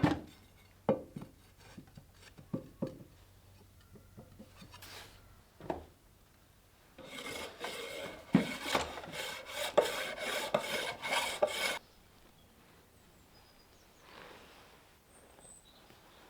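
A few sharp knocks, then about five seconds of quick rasping strokes, roughly three a second, from hand filing, which stops suddenly.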